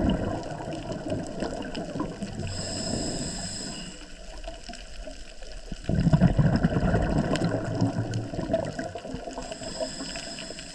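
Scuba diver breathing underwater through a regulator: a rush of exhaled bubbles at the start and again about six seconds in, with a hissing, whistling inhale through the regulator between them, about three seconds in, and another near the end.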